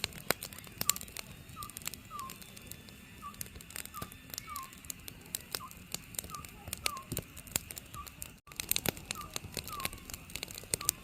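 An Oriental scops owl calling, short slightly falling hoots repeated over and over about one to two a second, over the crackling and popping of a wood fire.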